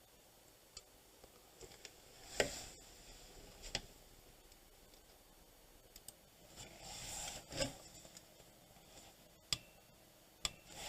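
Faint scattered clicks and light scraping from a multimeter and its test probes being handled on a circuit board, set up for a continuity check.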